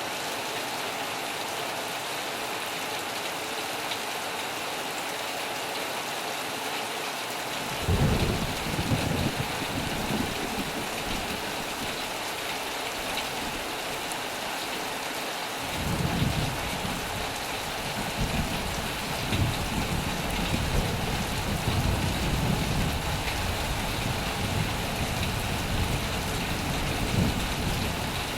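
Heavy rain pouring on a metal roof, a steady hiss. About 8 seconds in, thunder breaks in suddenly with a low rumble that fades over a few seconds; around 16 seconds a second, longer peal of thunder starts and keeps rolling.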